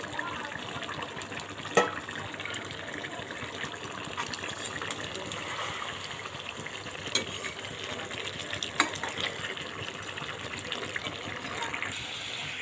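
Chicken pieces frying in oil and their own juices in an aluminium kadai, a steady sizzle, with a metal slotted spoon stirring and knocking against the pan a few times.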